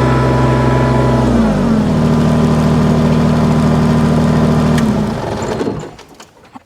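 Kubota BX-series compact tractor's three-cylinder diesel engine running, dropping to a lower, steady speed about a second and a half in. Near the end the engine winds down and stops.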